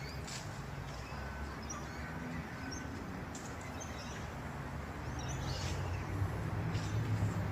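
Birds chirping and calling, including three short, even whistled notes about a second apart, over a steady low hum that grows louder in the last couple of seconds.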